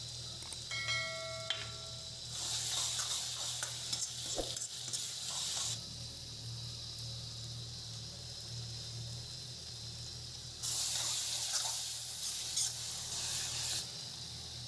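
Spiced onion-tomato masala sizzling in a hot kadhai while it is stirred with a wooden spatula, in two spells of a few seconds each with scraping against the pan.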